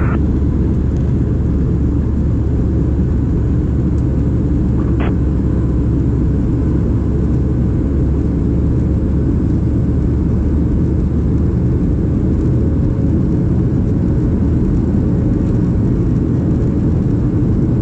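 Steady low rumble of a Boeing 737-700 in the climb after takeoff, heard from inside the cabin: its CFM56-7B engines and the airflow around the fuselage.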